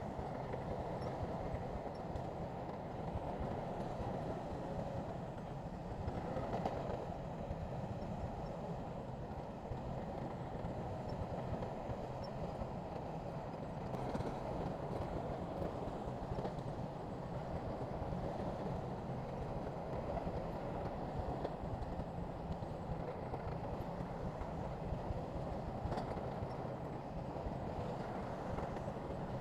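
Bulldozer's diesel engine running steadily under load with its tracks clattering, with a few sharp metallic knocks.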